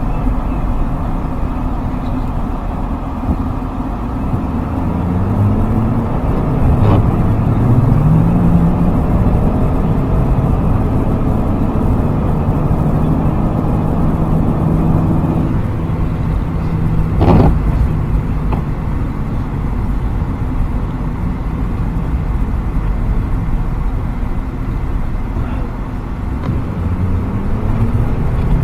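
Ford 6.7 L Power Stroke V8 turbo-diesel in a plow truck running under way, its pitch rising several times as it accelerates, then holding steady. Two sharp knocks cut through, about seven seconds in and again near the middle; the second is the louder.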